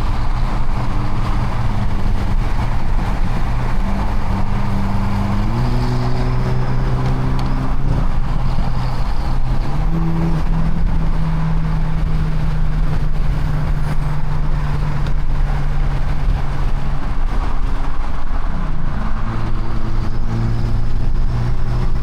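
A car driving with its engine running at steady speeds over road rumble; the engine note steps up in pitch twice and drops back once near the end.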